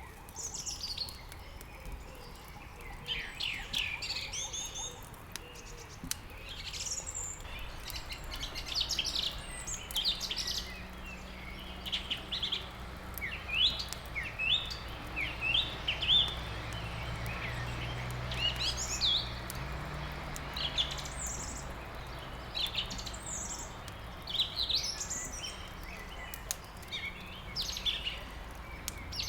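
Small songbirds chirping and twittering, many short quick-gliding calls overlapping one another, over a steady hiss. A low rumble comes in after several seconds, swells in the middle and fades near the end.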